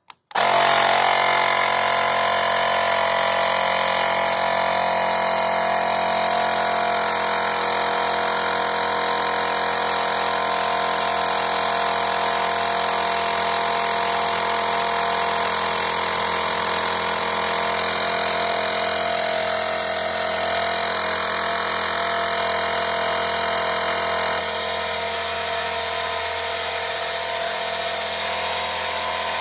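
Battery-powered portable mini air compressor running, a steady motor-and-pump drone that starts abruptly and holds an even pitch, dropping slightly in level about 24 seconds in.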